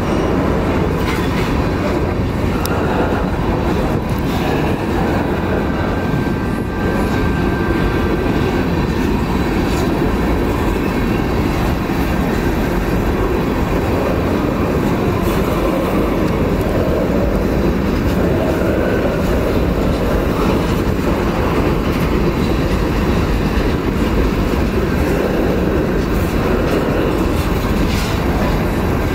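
Freight train cars (open-top and covered hoppers) rolling past close by: a steady rumble of steel wheels on the rails, with scattered sharp clicks as the wheels pass over rail joints.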